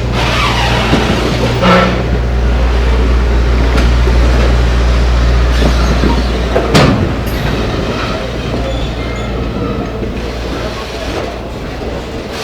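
Excursion train running on the rails: a steady low drone with rattling rail and car noise. About seven seconds in there is one sharp clunk, and after it the low drone eases off.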